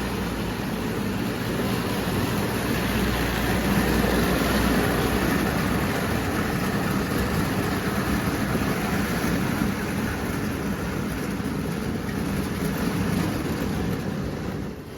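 O gauge toy electric train running steadily on its track, a continuous noise of motor and wheels on the rails.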